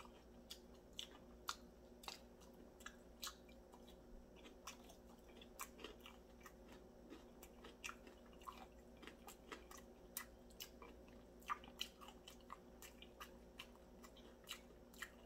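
Faint close-up chewing of a sticky glazed chicken drumstick: soft, irregular wet mouth clicks and smacks, several a second, over a low steady hum.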